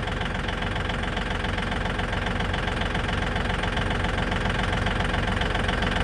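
Tractor engine running steadily at low revs with an even, rapid pulsing, while it holds tension on a chassis-pulling strop.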